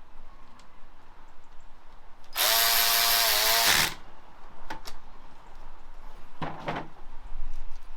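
Cordless power tool, an impact gun, running hard for about a second and a half with its pitch sagging slightly as it takes up load, then a shorter second burst about four seconds later, run down on bolts during a gearbox and starter fit.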